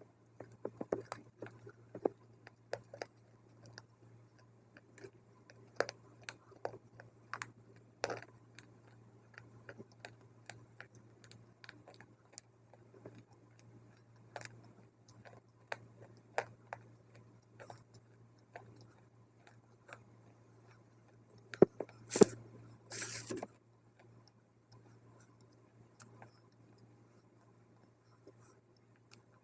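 Close-miked crunching and chewing of dry multani mitti (Fuller's earth clay): irregular sharp crunches and clicks, with a louder, longer crunch about 22 seconds in, over a steady low hum.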